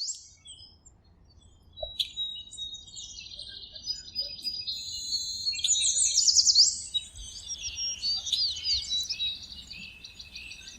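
Several birds singing and chirping together: high trills and quick rising whistles, busiest in the middle.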